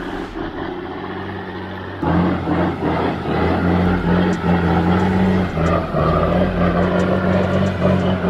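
Logging truck's engine running under heavy load, a steady low hum that gets louder about two seconds in.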